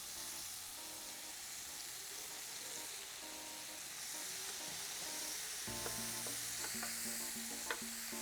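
Onions frying in olive oil in a hot pan, with a steady sizzle as they start to colour. A few light clicks come near the end.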